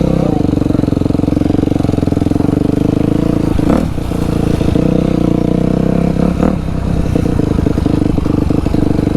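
Dirt bike engine running hard close to the microphone, held at a steady pitch. The revs dip briefly twice, about a third and two thirds of the way through.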